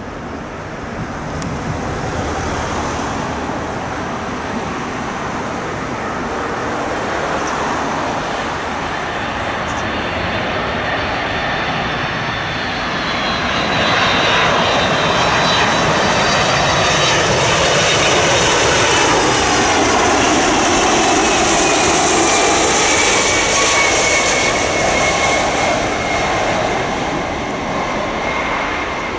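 Heavy jet airliner coming in to land and passing close by: a rushing engine roar that swells about halfway through, with a high whine that slides steadily down in pitch as it goes past.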